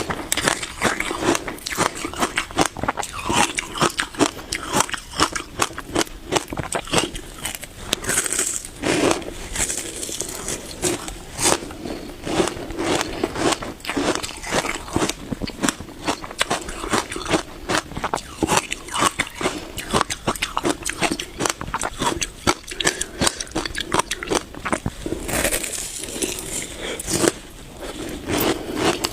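Close-miked biting and chewing of frozen passion-fruit ice: a dense, irregular run of sharp crunches and crackles, several a second, without a break.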